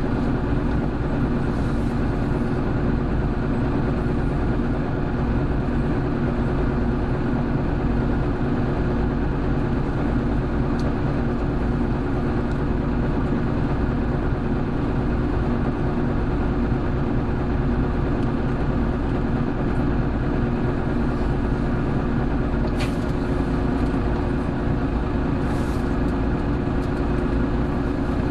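Hino Blue Ribbon City Hybrid city bus (BJG-HU8JLFP) under way, its engine and drivetrain running as a steady drone over road noise. A faint click about 23 seconds in.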